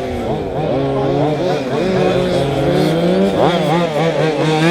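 Several radio-controlled model racing cars' motors running at once, their pitches rising and falling as the cars accelerate and slow through the corners, with one sharp rise about three and a half seconds in.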